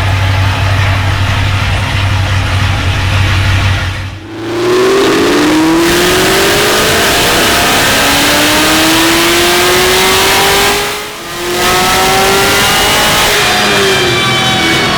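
Dodge Viper ACR's V10 engine running at a steady low note, then, about four seconds in, revving up hard through a gear with its pitch climbing. It drops off briefly for an upshift about eleven seconds in, pulls up again, then eases off near the end.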